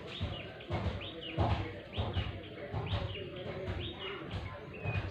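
A small bird chirping over and over, one short high chirp about every two-thirds of a second, with a low, uneven rumble underneath.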